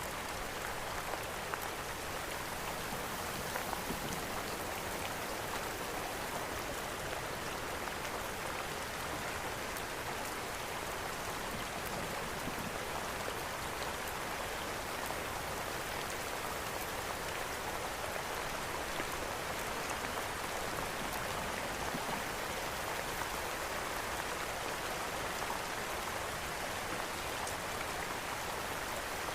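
Steady rain, an even hiss of falling drops, mixed with a fireplace's faint crackles that pop up here and there.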